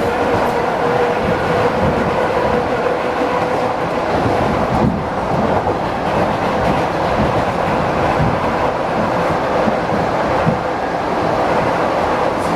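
ED4M electric multiple unit running between stations: steady wheel-on-rail rumble and clatter, with a faint steady tone running through it.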